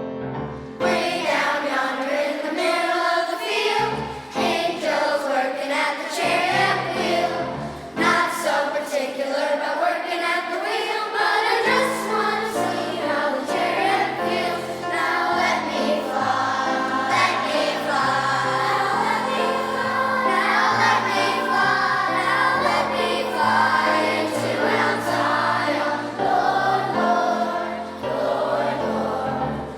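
Children's choir singing a gentle song together with piano accompaniment.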